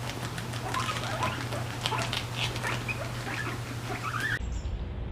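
Small animals giving many short, high squeaks, with light clicks or tapping over a faint steady hum. The sound cuts to a quieter stretch about four seconds in.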